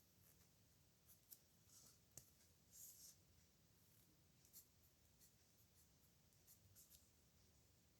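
Faint, irregular scratching of a pen nib on paper as handwritten strokes are made, in short strokes with brief pauses between them.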